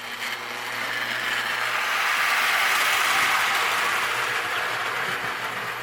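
Marx Wm. Crooks toy train engine running on three-rail O-27 track, its electric motor and gears whirring and its wheels rolling on the rails. It grows louder about halfway through as it passes close, then eases off.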